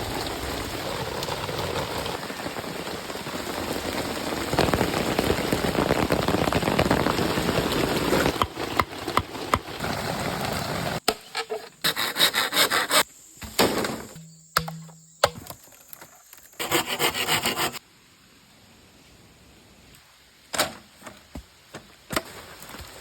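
Hand sawing of wood, a continuous rasping that grows louder for about eleven seconds. It then breaks into short, chopped stretches of similar noise, with a few sharp clicks near the end.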